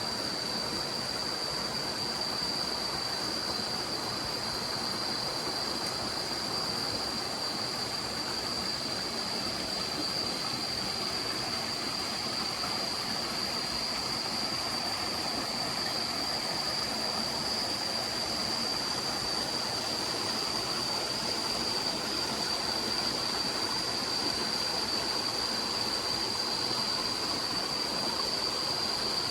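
Forest stream flowing, a steady, unbroken rush of water, with a constant high-pitched whine running through it.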